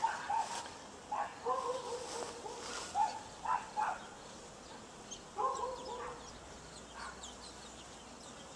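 Short animal calls in small groups, several times, over faint outdoor background.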